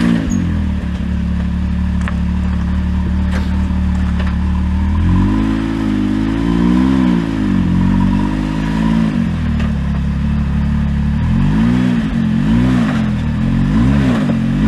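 Side-by-side UTV engine running steady at first, then revved up and down, twice slowly about halfway through and about four times in quick bursts near the end, as the machine pulls up onto an obstacle on the trail.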